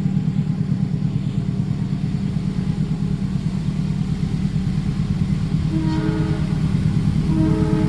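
Steady heavy low rumble of a passing train. About six seconds in, a sustained chord-like horn sounds and holds.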